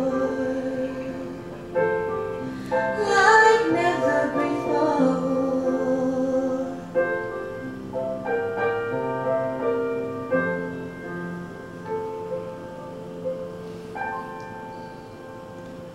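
Pop ballad recording: a female voice singing over piano. The singing gives way to held piano chords that fade out near the end.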